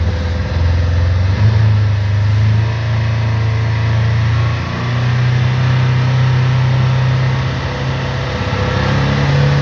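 Polaris Ranger XP 1000's 999 cc parallel-twin engine held at raised revs in neutral, its pitch steady apart from small steps up and down. The engine is being held above 4000 RPM for about 30 seconds to clear spark-plug misfire codes 65590/65592.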